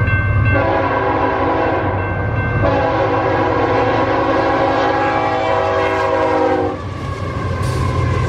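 Locomotive horn sounding twice, a short blast and then a longer one of several tones together, over the steady rumble of the passing train.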